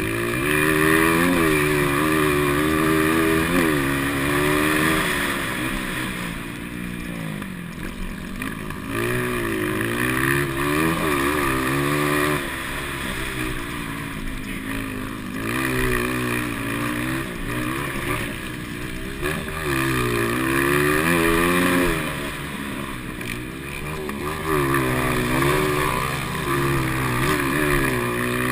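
Motocross motorcycles racing, their engines revving up and dropping back again and again as the riders accelerate and ease off.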